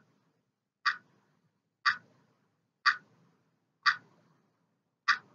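Clock ticking, five sharp ticks about a second apart, a countdown tick marking the thinking time before the quiz answer is given.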